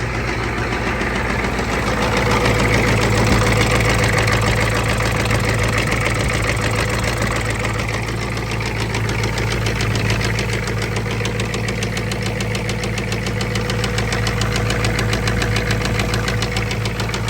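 1985 Ford F-250's 6.9L IDI V8 diesel idling with a steady, even diesel clatter just after a cold start. It is running smoothly, a sign that the new glow plugs and the fuel system are working.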